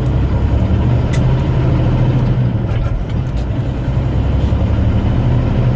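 Semi-truck diesel engine running steadily while driving, a continuous low drone, with a sharp click about a second in.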